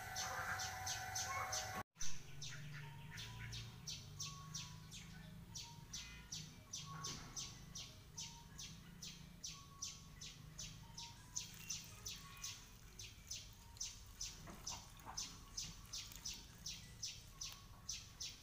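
A small bird chirping over and over at an even pace, about two to three short high chirps a second, over a low background hum. A sharp click about two seconds in is the loudest moment.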